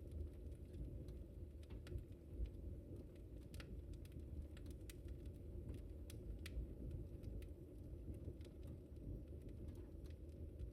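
Wood fire crackling in a fireplace: scattered, irregular sharp snaps and pops over a steady low rumble of the flames.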